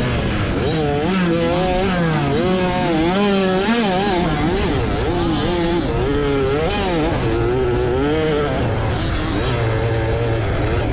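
65cc two-stroke motocross bike engine racing, its pitch rising and falling quickly over and over as the throttle is worked, then holding a steadier, lower note near the end.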